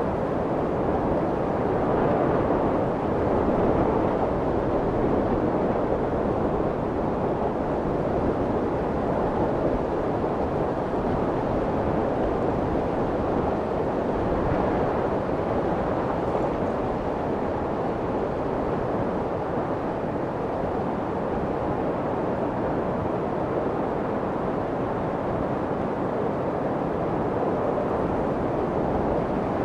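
Steady deep, muffled rushing noise with only slight slow swells in loudness: baby-soothing white noise meant to imitate the sound of the womb.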